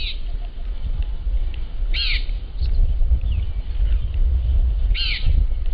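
A bird gives a short, arching call three times, about every three seconds, over a steady low rumble.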